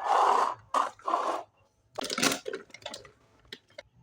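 Packaging crinkling and rustling in several short bursts as a miniature toy kitchen set is unboxed by hand, followed by a few small clicks of plastic pieces.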